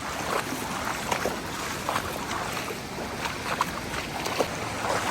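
Steady rush of flowing water, with scattered short clicks and knocks over it.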